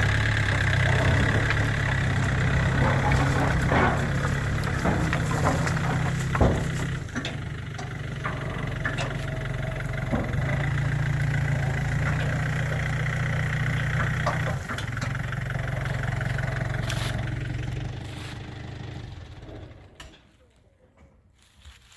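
New Holland TCE50 tractor's diesel engine running steadily, with scattered knocks and clatter over it, then switched off about eighteen seconds in, dying away over a couple of seconds.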